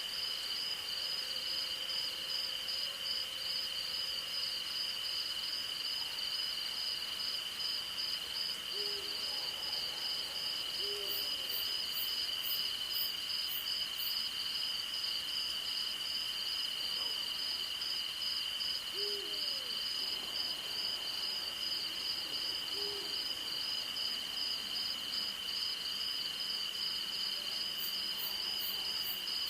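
Night chorus of crickets and other insects: a continuous high trill with a pulsing note above it. Over it, an owl gives about four short single hoots spread through.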